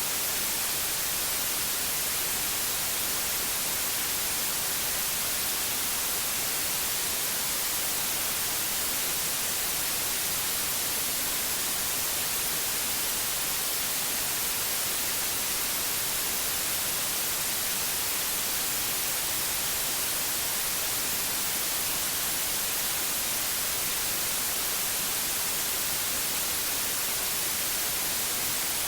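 Steady, unbroken white noise: an even hiss, brightest in the high frequencies, with no change or events.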